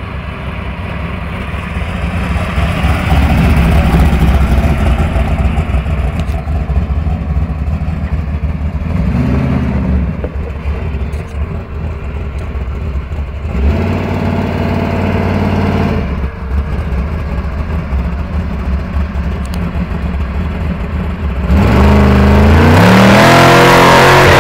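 A 1968 Hemi Dart's 426 Hemi V8 running loud as the car drives by, then blipped up briefly twice. Near the end it revs hard as the car launches, its pitch climbing in steps under a harsh hiss as the rear tyres fight for traction.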